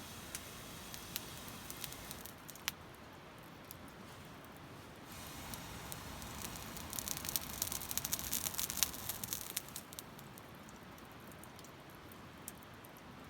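Glowing Japanese cut charcoal (Iwate kirizumi) crackling with scattered sharp pops. About five seconds in a breathy rush of air blows across it and the crackling becomes dense for several seconds as sparks fly, then dies back to occasional ticks.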